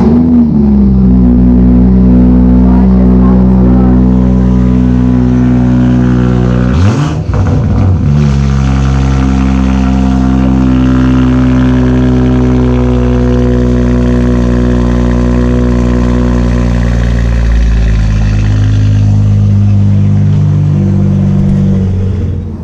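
BMW 340i's B58 turbocharged inline-six, run through a cattless downpipe and muffler delete, starting with a loud flare and settling into a loud, steady high idle. About seven seconds in it briefly drops away and fires back up. The idle then steps down to a lower note about eighteen seconds in.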